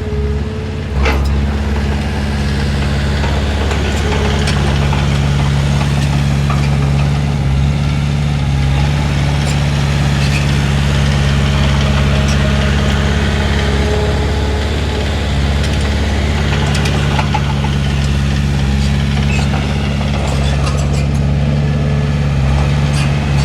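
Heavy diesel engine of earthmoving machinery running steadily at a constant speed, with a sharp knock about a second in.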